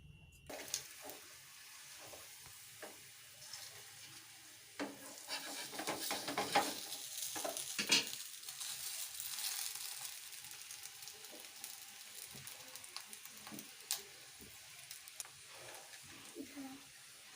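Food sizzling as it fries in a pan, with a spatula stirring and knocking against the pan now and then. The clatter is busiest and loudest in the middle.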